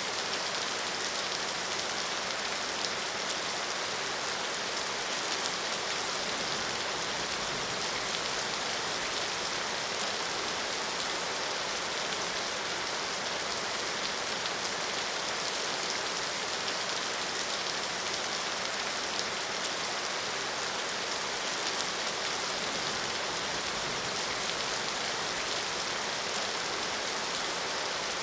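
Steady rain falling, an even unbroken hiss of many drops with no change in strength.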